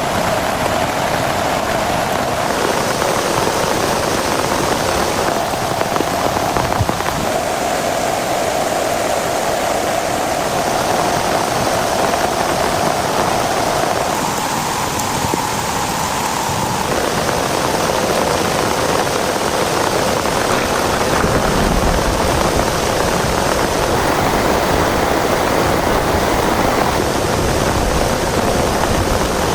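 Heavy rain falling steadily, a dense, even hiss whose tone changes abruptly a few times.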